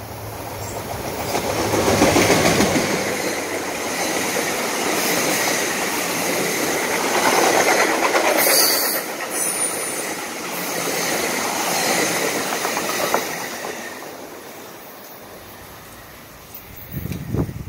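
Exo commuter train of bilevel passenger coaches passing close by at speed, its wheels clattering over the rail joints. The sound swells to its loudest about two seconds in, stays strong while the coaches go by, then fades away over the last few seconds, with a short low rumble near the end.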